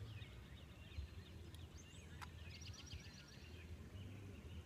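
Songbirds singing outdoors: scattered chirps and, about halfway through, a fast trill of repeated high notes. A low rumble runs underneath, and a single sharp click comes a little after two seconds.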